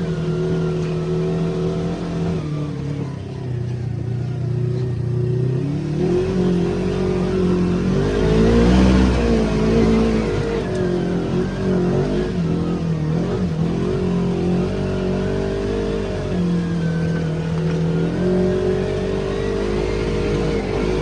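Polaris RZR XP 1000 side-by-side's twin-cylinder engine running under way, its pitch rising and falling with the throttle and peaking loudest about midway before easing back.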